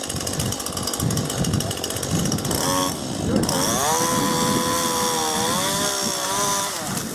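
Two-stroke chainsaw ticking over roughly, then opened up to high speed about three and a half seconds in. It holds a high whine for some three seconds, its pitch sagging and recovering, before dropping back.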